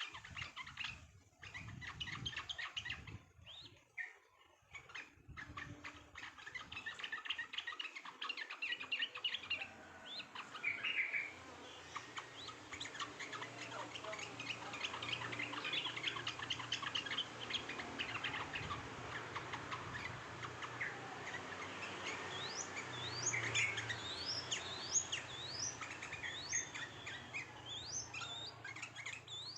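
Many small songbirds chirping and chattering busily over one another, with a flurry of quick, sharply rising chirps in the last third.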